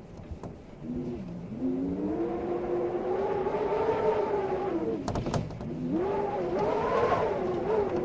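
Wind howling in gusts, a moaning tone that rises and falls in pitch, swelling about a second in, dipping midway with a few brief clicks, then swelling again near the end.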